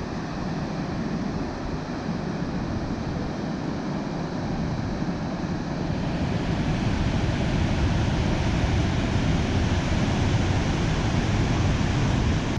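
Dettifoss waterfall's steady roar of falling water, growing louder and brighter about halfway through.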